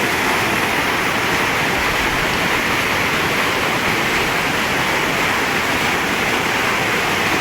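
Floodwater from the burst Kach Dam rushing past in a steady, loud torrent.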